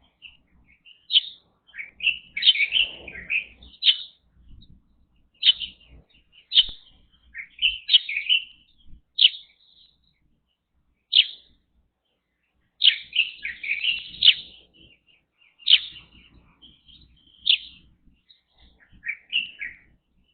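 Songbirds chirping: short, sharp calls, one every second or two, with a few quick runs of notes and a quieter stretch a little past halfway.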